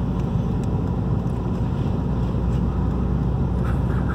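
Steady low rumble of a car's engine and tyres, heard inside the cabin, driving slowly on a snowy road.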